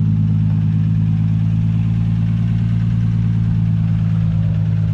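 BMW E36 M3's straight-six engine running at a steady, unchanging speed: an even low drone with no revving.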